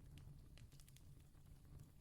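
Distant campfire crackling faintly, with scattered sharp pops and snaps over a low, steady rumble.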